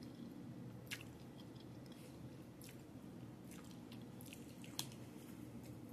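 A person chewing a mouthful of creamy pasta with soft, wet mouth sounds, slurping in a strand of noodle. A few sharp clicks come through, the loudest about one, three and five seconds in.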